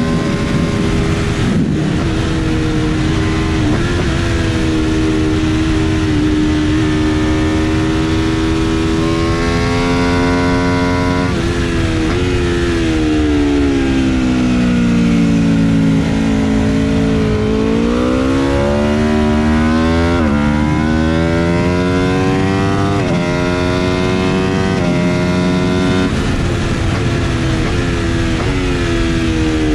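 Aprilia RSV4 RF's 1000 cc V4 engine at full throttle on track: the pitch climbs and drops sharply at each upshift, falls for several seconds midway as the bike brakes and downshifts into a slow corner, then climbs again with quick upshifts every two to three seconds. Wind rushes on the onboard microphone.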